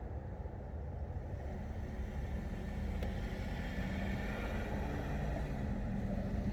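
A motor vehicle going by, with a low engine hum and tyre noise that slowly grow louder over a steady low rumble.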